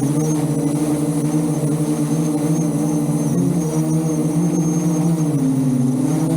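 Electric motors and propellers of a VTOL drone running steadily, a layered hum with faint high motor whine. Its pitch wavers slightly, dipping a little around the middle and again near the end.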